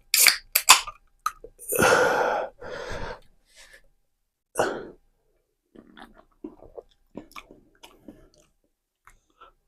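Mouth noises of drinking: a few short, loud breathy bursts in the first half, then a run of faint wet clicks of sipping and swallowing.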